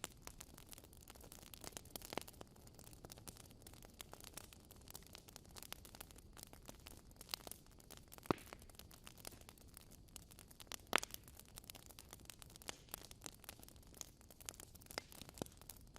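Wood fire burning in a fireplace, crackling softly with a dense run of small clicks, and sharper pops about eight and eleven seconds in.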